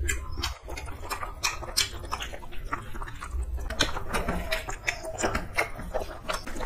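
Two people eating rice and curry with their hands: close, wet chewing and lip-smacking in many short irregular clicks, with fingers mixing rice on steel plates.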